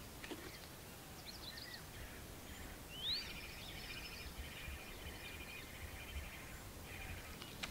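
Songbirds calling faintly. About three seconds in comes a rising whistle, followed by several seconds of rapid chirping and trilling.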